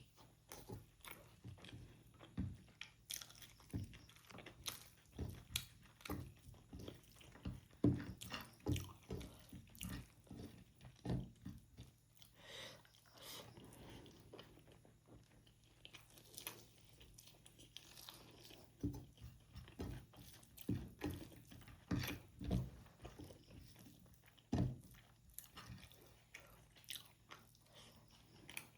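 Close chewing and mouth sounds of someone eating rajma chawal (kidney bean curry with rice): irregular wet smacks and clicks, several a second.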